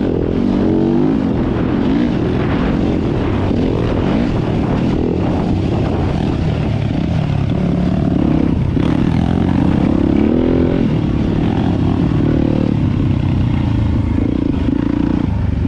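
Four-stroke dirt bike engine revving up and down repeatedly under heavy load while riding through deep, soft sand.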